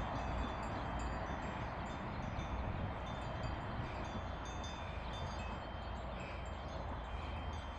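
Chimes ringing, many high, lingering tones over a steady low rumble and hiss.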